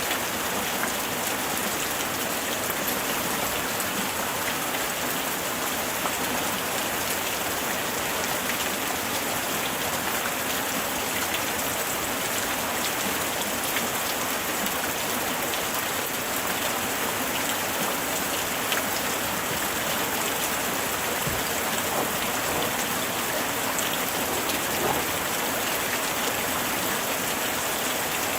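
Steady rain, a dense hiss of falling drops with many small pattering impacts of individual raindrops on surfaces.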